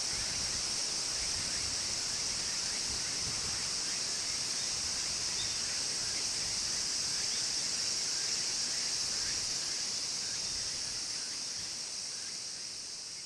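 Steady, high-pitched insect chorus of summer countryside, fading out near the end.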